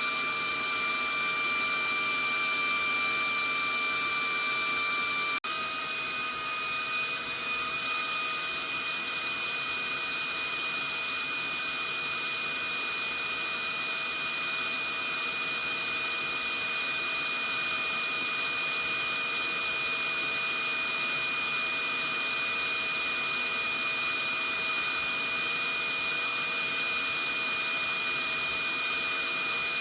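Vacuum cleaner running steadily: a rushing airflow with a steady motor whine on top. About five seconds in it cuts out for an instant, then carries on slightly louder with the whine a little higher.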